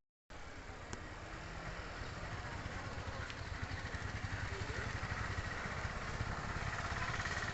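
Small 100cc motorcycle engine running steadily, growing a little louder through the stretch, after a split-second gap of silence at the start.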